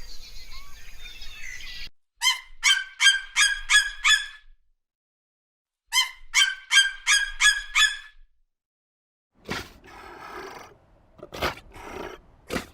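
Bird calls: thin chirping song at first, then two runs of about six quick, loud repeated calls, each run lasting about two seconds. Rougher, noisier animal sounds follow near the end.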